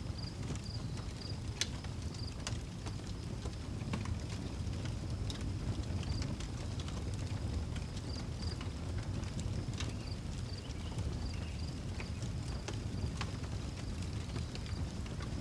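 Outdoor wood fire crackling, with scattered sharp pops and snaps over a steady low rumble, while a cricket chirps in short high pulses now and then.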